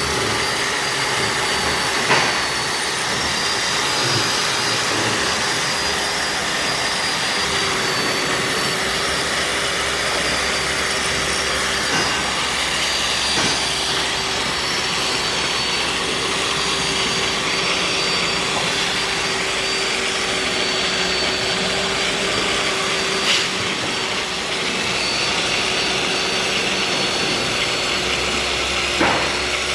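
Lathe bed grinding machine running steadily, its motor and grinding wheel giving a continuous whine with a low and a high held tone, broken by a few short clicks.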